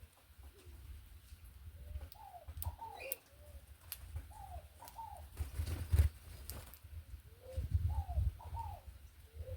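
A dove cooing in repeated short phrases of a few arched notes each, with a low rumble under it and a brief low thump about six seconds in.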